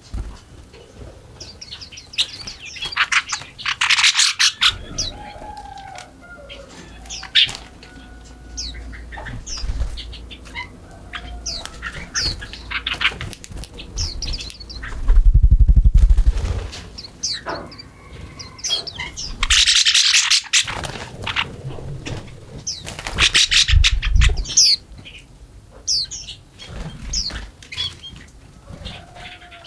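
Wild songbirds chirping and singing, with several fast, buzzy trills. About halfway through, a short low rumble is the loudest sound.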